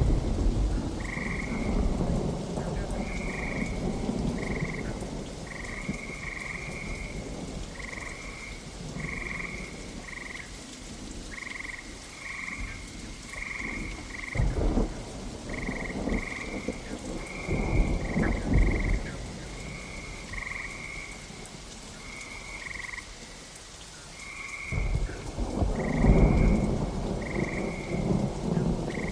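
Steady rain with a chorus of frogs croaking in short, repeated calls. Thunder rumbles several times, the loudest roll near the end.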